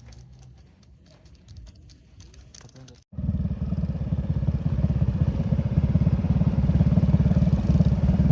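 Faint scattered clicks, then about three seconds in an abrupt cut to a loud motorcycle engine running with a fast, steady pulsing.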